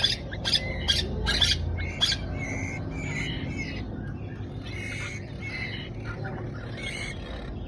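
A white-rumped shama chick begging for food with rapid, harsh squawks, about three a second. After about two seconds they give way to softer, thinner chirps.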